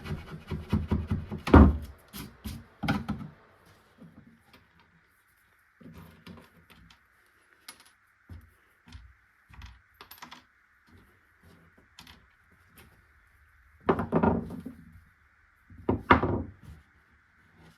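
Hand work on a wooden chest: rubbing on wood for the first few seconds, then scattered small clicks, clinks and knocks of wood and metal parts being handled, with two louder bursts of scraping near the end.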